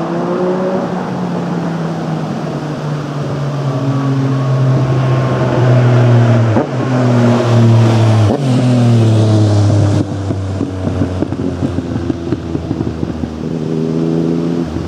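Yamaha MT-09 inline-three engine through a full Akrapovič carbon exhaust, pulling up through the revs with two short breaks. About ten seconds in it falls off to lower revs with a crackling note, settling near the end.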